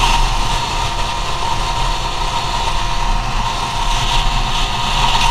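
Go-Ped scooter's CR70 engine running at speed with a steady high whine, mixed with wind and road noise. It eases off slightly in the middle and picks up again near the end.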